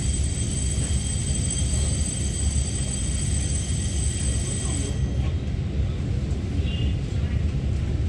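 Taiwan Railway EMU900-series electric multiple unit running, heard from inside the passenger car: a steady low rumble of the train in motion. Several steady high-pitched tones sit above it and cut off suddenly about five seconds in.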